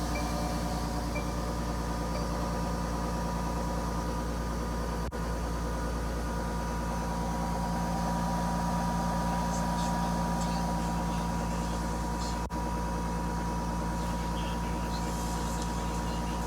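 Mercedes-Benz Tiffin RV's engine idling steadily just after a cold start. The sound cuts out for an instant twice.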